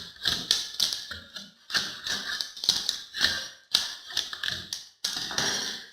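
A hand tool scraping and chipping old finish putty off a wall in repeated quick strokes, two or three a second. Near the end comes one longer continuous scrape, which stops abruptly.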